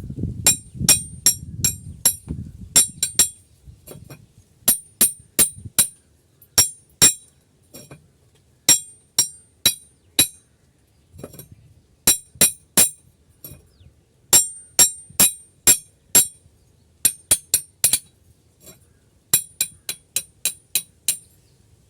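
A small hammer tapping on metal: sharp, ringing clinks in quick runs of two to six strikes with short pauses between.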